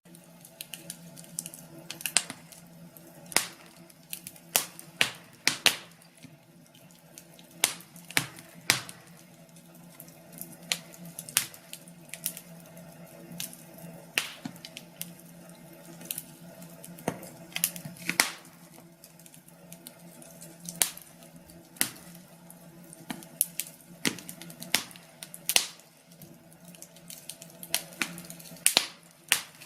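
Wood fire crackling in a fireplace: irregular sharp pops and snaps, several a second at uneven spacing, over a faint steady low hum.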